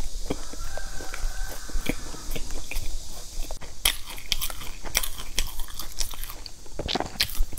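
Close-up mouth sounds of chewing a crispy puffed-rice bar with raisins, full of sharp crunchy crackles, with a loud crunching bite into the bar near the end.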